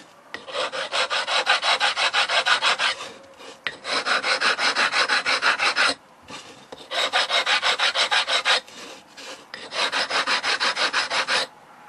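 A file rasping back and forth along the wet-saw-cut edge of a honed-and-filled travertine tile, taking the edge down. Four runs of quick strokes, about five a second, with short pauses between them.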